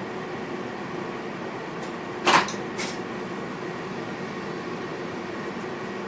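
Steady hum and rumble inside the driver's cab of an NS VIRM double-deck electric train. About two seconds in there is one sharp clack, then a smaller one half a second later.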